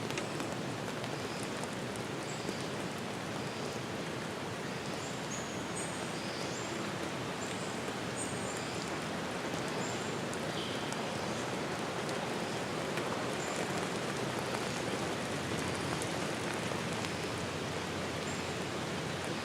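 Steady rain falling, an even hiss of drops. A few faint, short high chirps sound over it in the first half.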